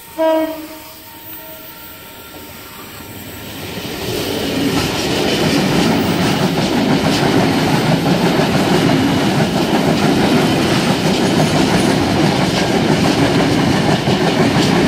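A passenger train running past on the rails. It grows louder over the first few seconds, then rumbles steadily with wheel clatter and some high wheel squeal. A short pitched tone sounds right at the start.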